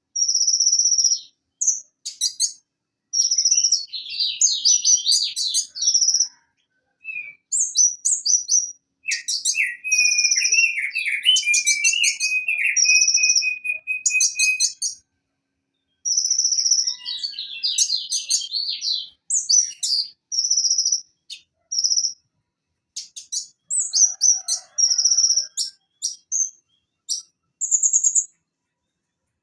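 Van Hasselt's sunbird (konin) singing in short, high, rapid phrases. The phrases mix thin held notes with quick trills and chatter, separated by brief pauses.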